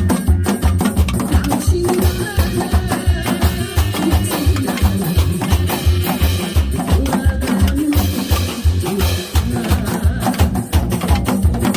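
Korean janggu (hourglass drum) played freestyle along to a trot backing track with a steady bass beat, with many quick wooden-sounding strokes.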